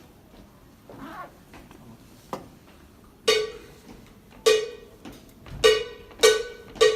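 A steelpan striking one repeated note five times, the strikes coming closer together towards the end, each note ringing and fading; a lead-in before the steel band comes in. A single faint click sounds before the first note.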